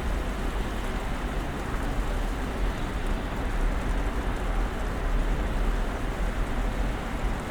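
Snowstorm ambience: a steady wash of wind-driven snow noise over a continuous low rumble.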